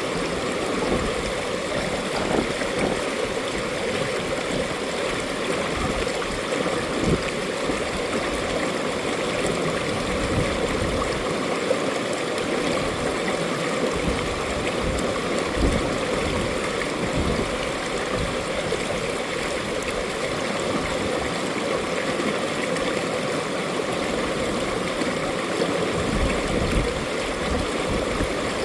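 Mountain stream water rushing and gurgling over rocks, steady and continuous.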